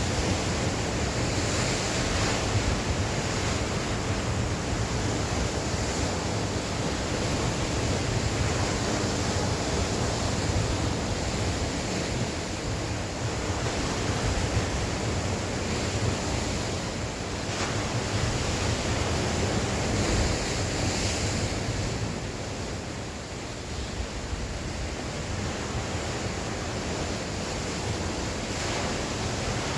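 Sea waves breaking and washing on the shore in strong wind, a continuous surging rush that eases for a few seconds past the middle, with wind buffeting the microphone in a low rumble.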